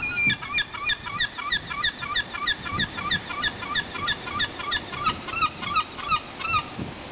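A bird calling in a fast, even series of short calls, about three to four a second, which stop about half a second before the end.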